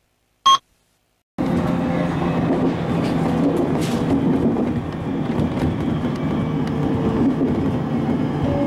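A short high beep over silence, then from about a second and a half in the steady running noise of an IGR Iwate Galaxy Railway train heard from inside the carriage.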